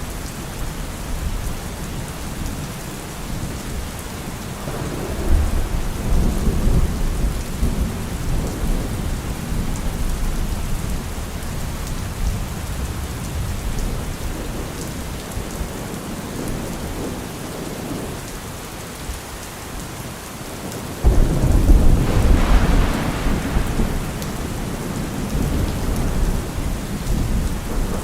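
Steady heavy rain falling, with thunder: a low rumble rolls in a few seconds in, and later a sudden, louder clap of thunder breaks and rumbles on for several seconds.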